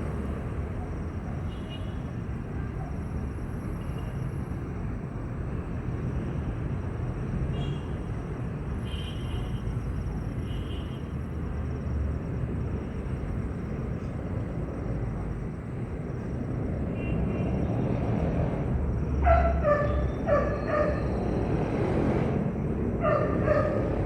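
Steady low rumbling noise, with a dog barking in short clusters of barks from about three-quarters of the way in.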